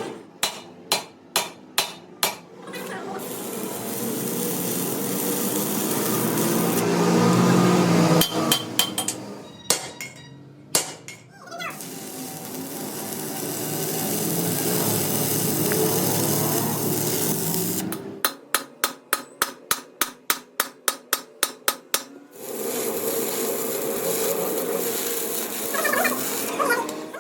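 Runs of hammer blows on metal, the longest a steady series of about four strikes a second, alternating with longer stretches of a steady noisy sound.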